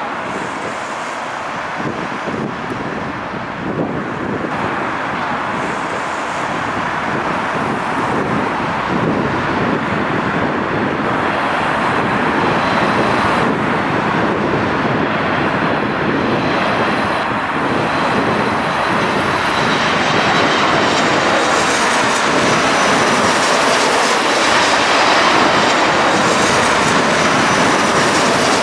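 Jet airliner coming in to land, its engine noise a steady rushing sound that grows slowly louder as it approaches, with a high whine joining in over the last several seconds.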